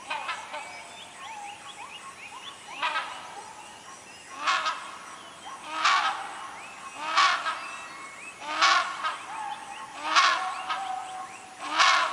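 A series of loud calls from a large rainforest animal, about one every second and a half, over a chorus of many small bird whistles.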